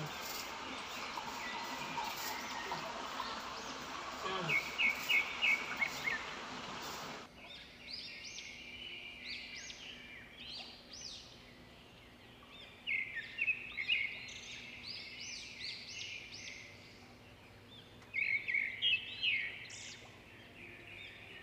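Small birds chirping in clusters of quick short calls. A steady hiss sits under the first few seconds and cuts off abruptly about seven seconds in.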